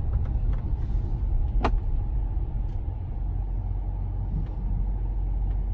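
Ford F250 pickup driving, its engine and road rumble heard from inside the cab as a steady low drone. A single sharp click sounds about a second and a half in.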